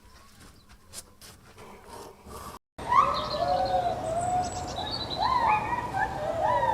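Faint clicking, then after an abrupt cut about three seconds in, an animal starts a run of short calls that rise and fall in pitch, several a second.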